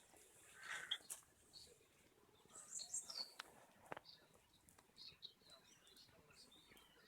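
Faint bird chirps and calls scattered through the quiet, with a few sharp clicks between them.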